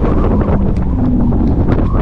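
Wind buffeting the microphone of a rider at speed on a Tarform Luna electric motorcycle, with a faint steady hum underneath.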